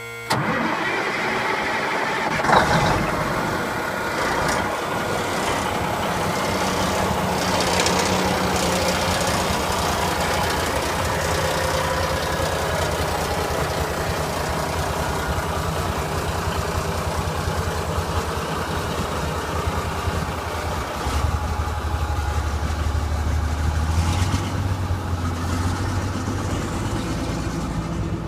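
Diesel engine of a 1971 AM General dump truck starting up, with a sharp bang about two and a half seconds in, then running steadily; it takes on a deeper, heavier tone about twenty seconds in.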